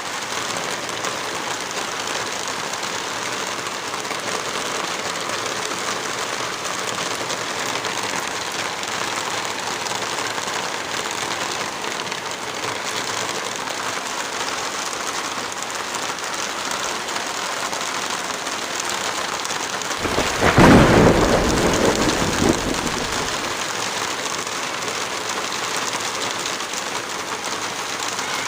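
Heavy rain falling steadily. About two-thirds of the way through, a loud deep rumble comes in suddenly and dies away over about three seconds.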